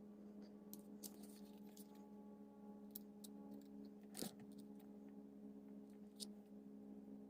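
Low, steady hum with a few light, scattered clicks and taps; the clearest tap comes about four seconds in.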